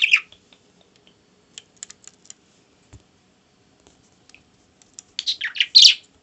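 Scattered sharp tapping clicks, with bursts of squawky bird chirping at the start and again about five seconds in.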